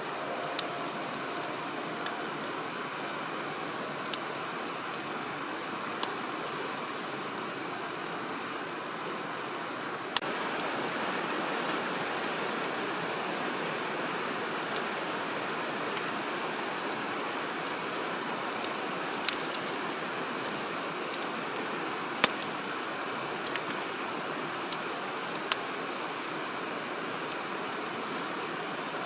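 Wood fire crackling, with irregular sharp pops over a steady hiss; the loudest pops come about 10, 19 and 22 seconds in.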